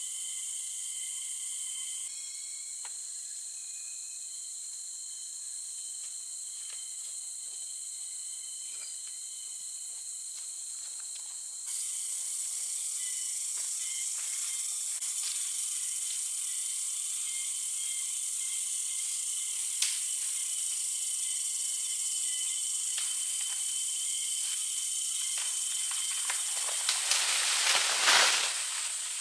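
Forest insects, crickets or cicadas, droning in a steady high hiss with thin shrill tones. Near the end a brief louder rush swells up and stops.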